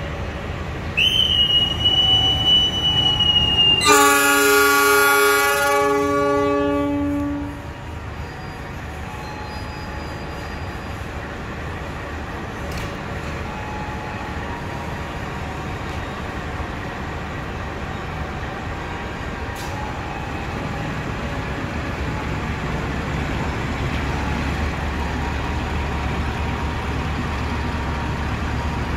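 A whistle blows one long high note, then the diesel locomotive's horn sounds one long blast of about three seconds. This is the departure signal, and the passenger train then pulls out with a steady rumble of engine and wheels that slowly grows louder.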